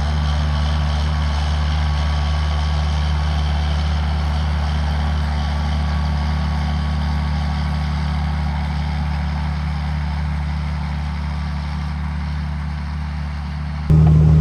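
John Deere 7800 tractor's six-cylinder diesel engine running steadily under load while disc-harrowing. Near the end the sound cuts suddenly to a louder, closer engine note.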